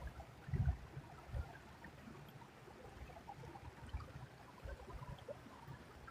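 Faint flowing creek water with irregular low rumbles, strongest in the first second and a half.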